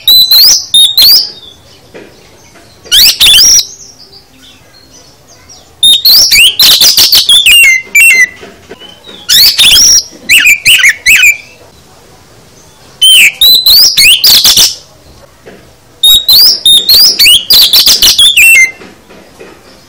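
Oriental magpie-robin (kacer) singing in about six loud phrases separated by short pauses. Each phrase is a rapid run of sweeping whistles and fast clicking notes, the varied full-isian song packed with mimicked phrases.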